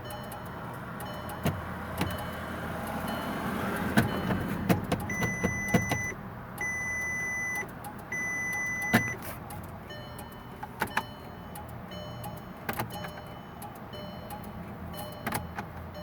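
Clicking from a 2008 VW Jetta 2.0T that will not start, irregular sharp clicks throughout, with three dashboard warning beeps about a second long each, one after another, in the middle. A short whir swells up just before the beeps. The clicking and the haywire dash point to the car getting too little power to crank.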